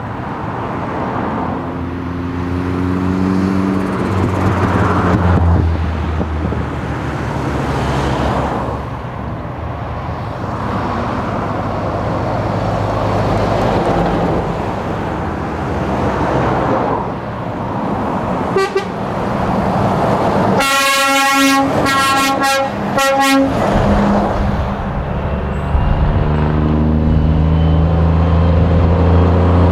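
Heavy truck diesel engines running with road and crowd noise. About two-thirds of the way in a truck's air horn gives a quick toot and then a string of short loud blasts. Near the end an engine note rises as a truck pulls away.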